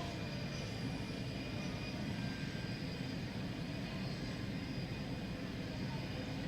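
Airliner jet engines running steadily at low taxi power as the plane moves toward the gate: a continuous rumble with faint, steady high-pitched whines.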